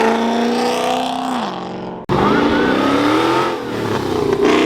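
A car engine accelerating hard, its pitch dropping about a second and a half in. The sound breaks off suddenly about two seconds in, and then another car engine is heard accelerating with rising pitch.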